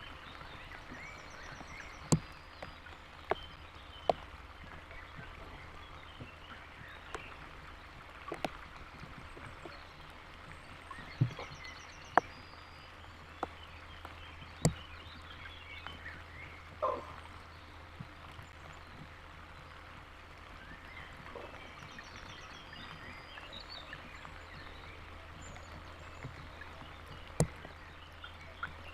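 Rain falling, with about ten loud, sharp drops striking close to the microphone at irregular intervals over a steady hiss and low hum, and faint bird calls in the background.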